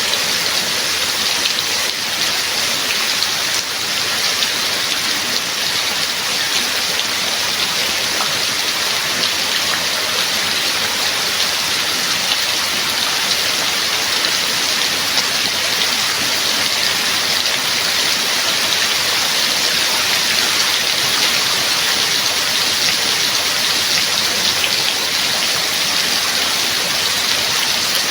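Steady rain falling, a dense, even hiss that stays constant.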